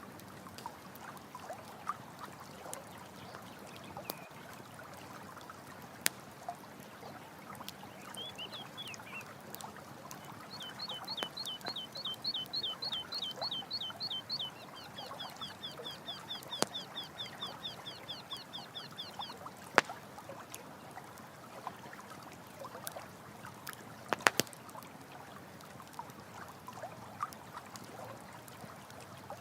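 Running water flowing steadily while a campfire crackles with sharp, scattered pops. About ten seconds in, a rapid series of high chirps, around five a second, goes on for roughly nine seconds.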